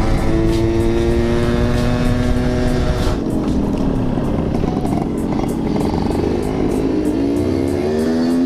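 Yamaha RX-King's 135 cc two-stroke single-cylinder engine running under way. It holds a steady pitch, the throttle closes about three seconds in and the pitch falls, then it climbs again as the engine is revved up near the end.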